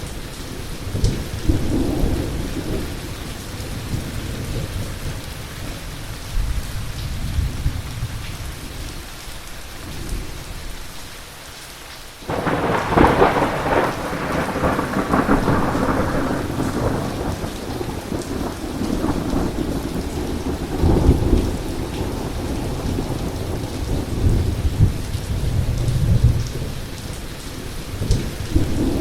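Heavy rain falling steadily under rolling thunder. About twelve seconds in, a sudden close thunderclap cracks and rumbles on for several seconds before fading back into more distant rumbling.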